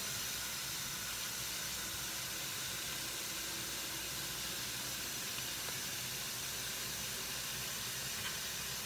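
Pork belly and chopped onion sautéing in their own rendered fat in a large pot: a steady, even sizzle.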